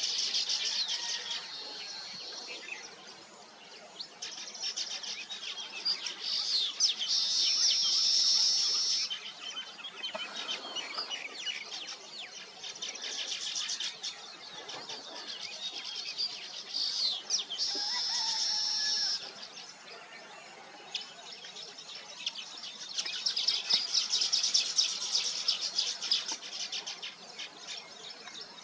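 A colony of weaver birds chattering and singing. It comes in bouts of dense, high twittering a few seconds long, with quieter spells between.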